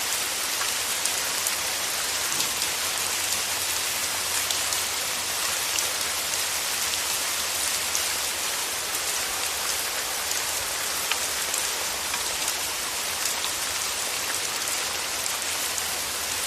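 Steady rain falling, an even hiss with many individual drops heard as fine clicks.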